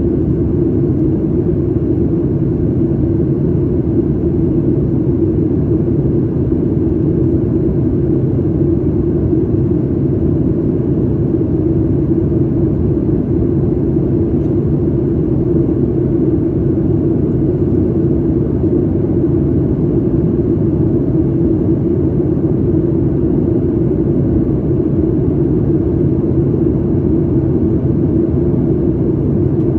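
Steady cabin rumble of a Boeing 737 MAX 8 with its CFM LEAP-1B engines running, heard from inside the cabin, with an even hum near the middle of the low range and no changes.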